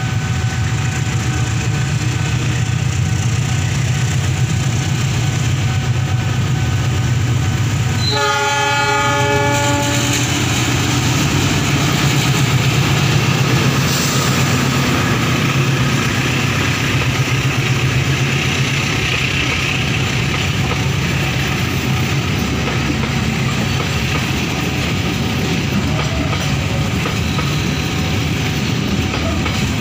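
KAI long-distance passenger train with a diesel locomotive passing at close range, a steady loud rumble throughout. One horn blast of about two seconds sounds about eight seconds in, then the passenger cars keep rolling past.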